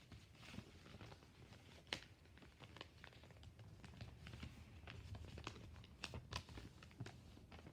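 A sheet of paper being folded and creased by hand: faint, irregular crinkles and taps.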